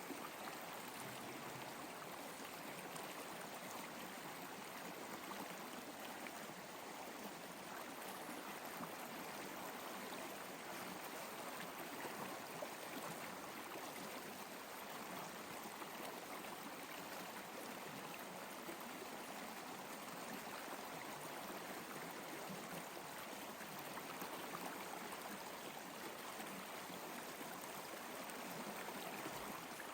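Flowing water rushing steadily, like a stream.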